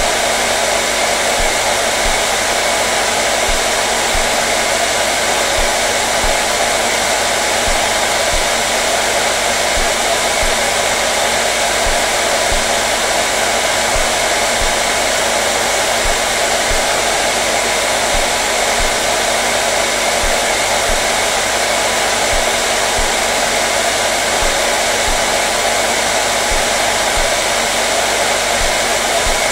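Hand-held electric hair dryer running continuously: a steady rush of blown air with a faint motor hum, not changing in speed or level.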